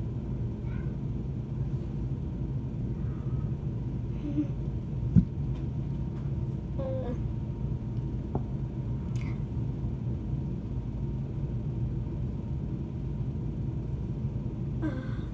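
Steady low background rumble, with faint distant voices now and then and one sharp click about five seconds in.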